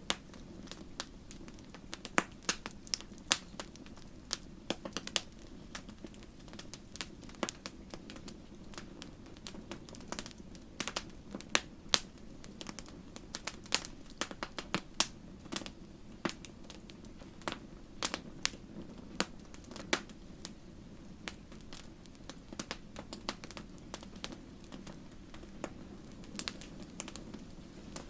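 Campfire crackling: wood burning with a steady low rumble of flame and frequent sharp, irregular pops and snaps.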